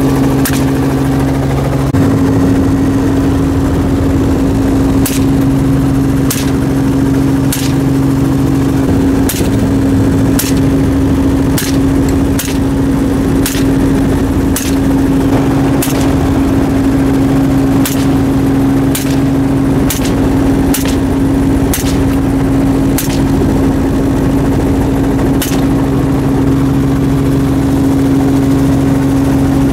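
Helicopter running steadily with a constant drone, while a rifle fires about eighteen shots at uneven intervals of roughly one to two seconds, in a quick run through the middle.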